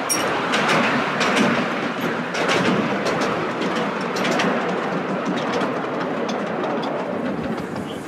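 Miniature railway passenger cars running along the track, a steady rumble of wheels on rail with irregular sharp clicks as the wheels pass over rail joints, heard from aboard the train.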